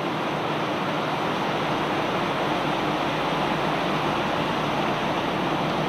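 Steady rushing, mechanical noise of barge unloading machinery, even throughout, with no separate knocks standing out.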